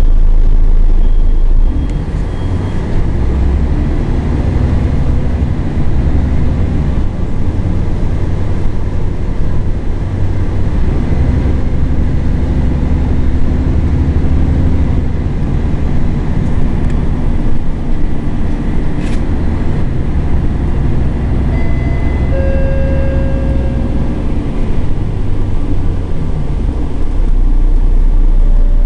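Scania L113CRL bus's rear-mounted 11-litre diesel engine running, its note rising and falling as the bus drives. The engine note changes about two seconds in and settles back near the end.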